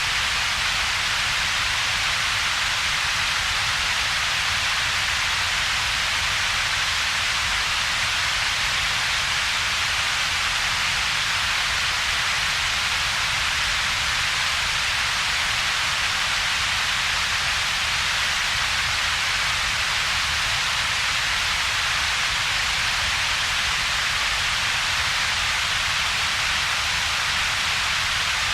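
Synthetic double-peaked noise: a steady, even hiss strongest in the upper mid-range, with a second, weaker hump of low rumble beneath a hollow gap.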